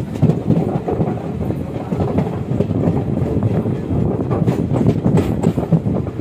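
Express passenger train running past, with a steady rumble of coach wheels on the rails.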